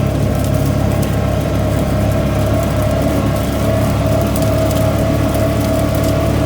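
ATV engine running at a steady pace, a constant droning tone with no revving up or down.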